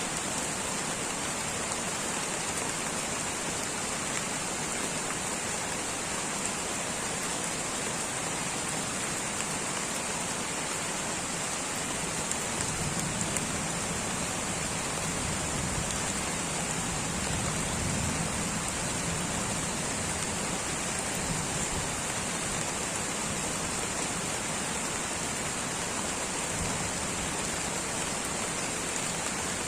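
Light rain falling steadily in a tropical rainforest, an even hiss, with a soft low rumble swelling briefly around the middle.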